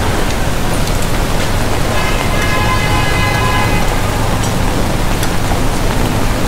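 Heavy rain falling on a wet city street with traffic running by, a steady dense hiss over a low rumble. About two seconds in, a held pitched tone sounds for a second or two.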